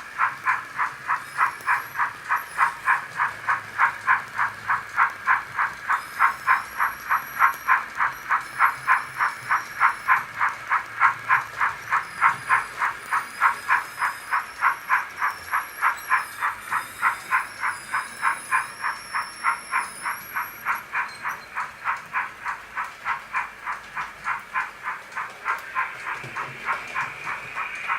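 Sound decoder in a 00 gauge Bachmann BR Standard class 4 tank locomotive model playing steam exhaust chuffs, steady at about three a second. The chuffs grow fainter over the last several seconds as a steady hiss comes in near the end.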